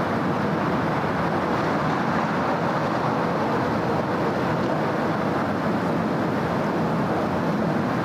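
Steady city road traffic: a continuous wash of engine and tyre noise, with no single vehicle standing out.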